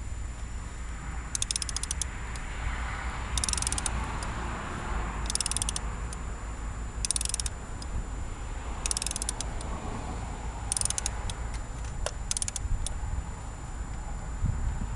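Ratchet wrench clicking in short runs of quick ticks, one run every couple of seconds, about seven in all, as a bolt is worked during the alternator reinstallation.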